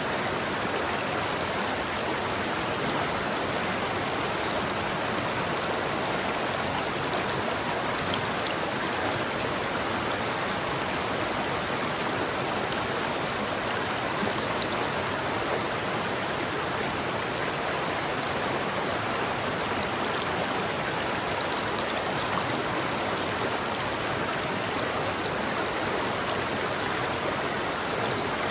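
River water flowing steadily over rocks, an even rushing sound with faint splashes.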